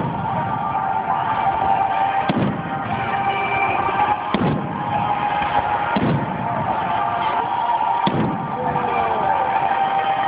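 Fireworks shells bursting with low booms, about one every two seconds, over music playing steadily.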